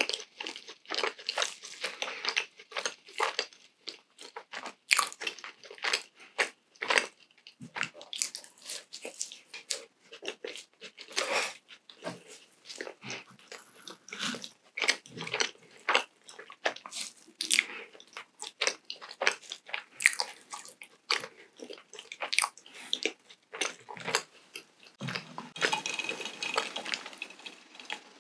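Close-miked mouth sounds of chewing donut dipped in yogurt: a dense run of short, crisp wet clicks and bites. Near the end come a few seconds of sipping through a straw.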